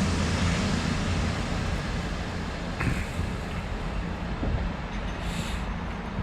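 Class 221 Super Voyager diesel-electric train running past, its underfloor diesel engines giving a steady low hum over the rumble of the train, slowly fading.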